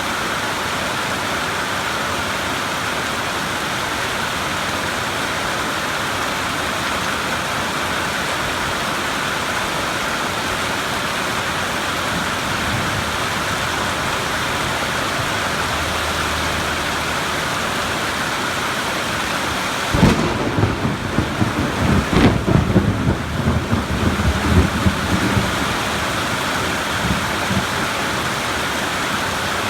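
Steady rain hissing, with a thunderclap about two-thirds of the way through that breaks suddenly and rumbles in uneven peals for several seconds before dying back into the rain.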